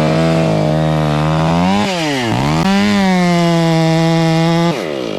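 Two-stroke chainsaw held at full throttle cutting a felling notch into a tree trunk. The revs dip sharply and climb again about two seconds in, then drop back to idle near the end when the throttle is released.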